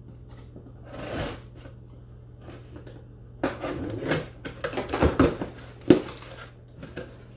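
A box of parts being opened and rummaged through: rustling and handling noises with several sharp knocks, busiest in the middle and sharpest near the end, over a faint steady low hum.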